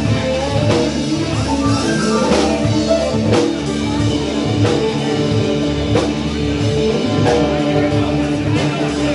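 Rock band playing: guitar over a drum kit keeping a steady beat.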